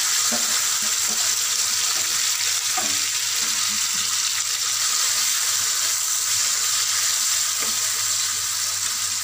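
Marinated prawns sizzling steadily in hot spiced oil in a wok, stirred with a metal spatula that knocks and scrapes against the pan now and then.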